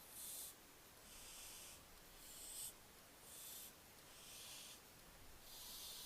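Young barn owl giving its hissing, snore-like begging call: a faint, breathy hiss about half a second long, repeated roughly once a second.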